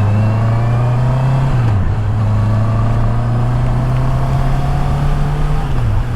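Honda CB650R's inline-four engine pulling away under acceleration, its note climbing steadily and dropping at an upshift about a second and a half in and again near the end, with wind and road noise.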